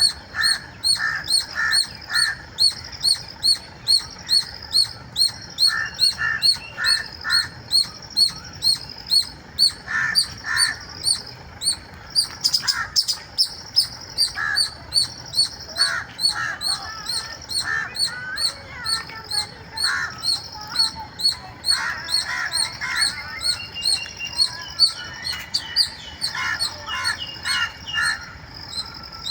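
Squirrel squealing: short, high-pitched chirps repeated about two to three times a second, on and on, with lower calls in bursts of three or four every few seconds.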